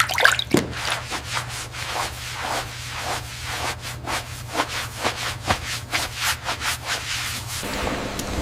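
Repeated rubbing strokes on a snake skin being cleaned, about two or three a second, over a steady low hum that stops near the end.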